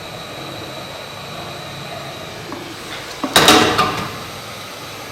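Steady blowing hiss of a hot-air rework gun, with a short, loud, buzzy clatter about three seconds in.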